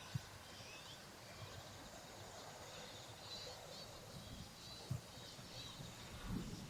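Faint outdoor ambience with scattered distant bird chirps and a few soft low knocks, one near the start, one around five seconds in and one near the end.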